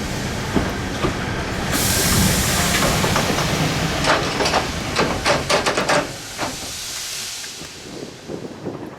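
Steam locomotive letting off a loud hiss of steam that starts suddenly about two seconds in, over the running noise of the train, with a run of sharp clicks in the middle before the hiss fades.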